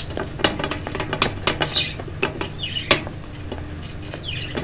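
Slime being stirred in a bowl with a utensil as the activator is mixed in: irregular clicks, scrapes and taps against the bowl.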